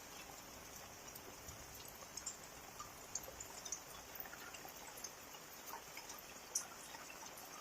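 Steady rain falling in a village, with scattered small drips and ticks of drops.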